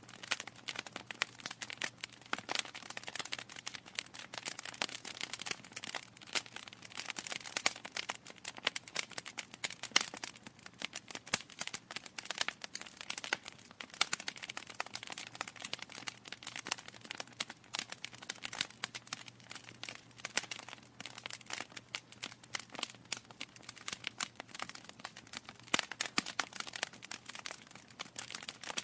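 Wood fire burning in a fireplace: dense, irregular crackling and popping from the burning logs over a soft hiss.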